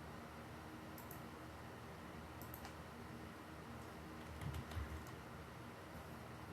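Sparse computer-keyboard typing: small clusters of light key clicks every second or two, with a soft low thump about four and a half seconds in, over a steady low hum.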